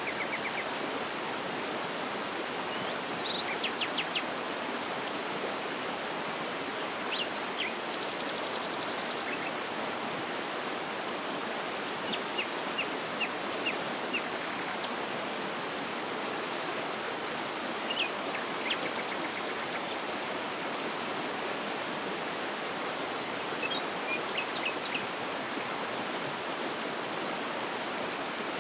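Waterfall rushing steadily, with small birds chirping now and then over it, including a quick high trill about eight seconds in.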